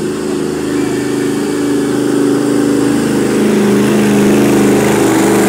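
Pulling truck's engine running hard under load, growing louder, its pitch sagging a little about three seconds in.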